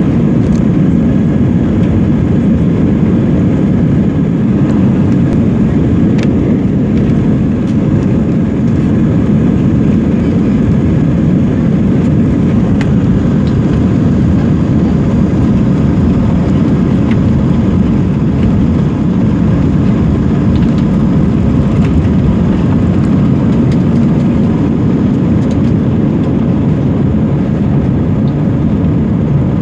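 Airliner taking off, heard as a loud, steady low rumble of engines and rushing air, with a few faint scattered ticks.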